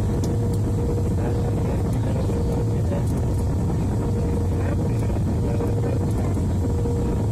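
Steady cabin noise of a Boeing airliner on its landing approach: the even roar of engines and airflow, with a thin steady droning tone running through it.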